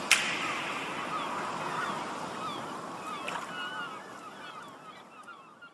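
A sharp click, then many short chirping bird calls over a steady rushing noise, fading away toward the end.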